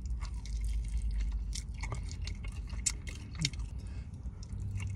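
A man biting into and chewing a sauced, charbroiled chicken wing: irregular wet clicks and smacks of the mouth, over a low steady hum.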